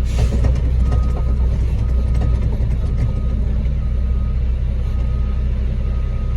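Concrete mixer truck's diesel engine running steadily with a low rumble, while a reversing alarm beeps faintly about once a second.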